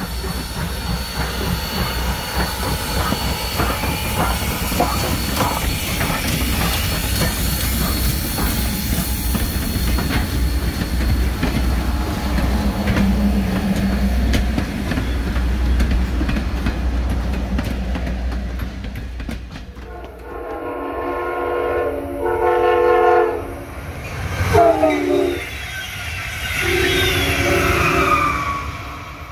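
A steam locomotive and its wooden passenger coaches roll past with steady wheel clatter on the rails. About two-thirds of the way in, an Amtrak Siemens ACS-64 electric locomotive's horn sounds in several blasts, a short one among them and the last one long.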